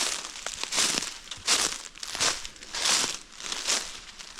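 Footsteps crunching through dry leaf litter on a forest floor at a steady walking pace, six steps.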